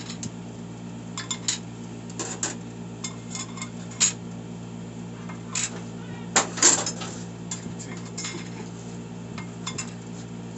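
Metal transmission parts and tools clinking and clattering as a TH350 automatic transmission is put back together: scattered sharp clinks, with the loudest cluster about six and a half seconds in.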